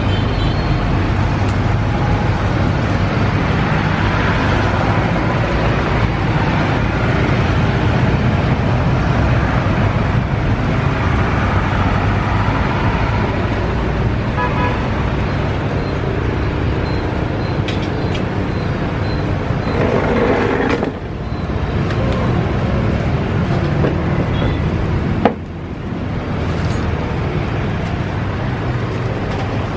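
Steady road traffic noise with a continuous engine rumble. A sharp click comes near the end, after which the noise is a little quieter.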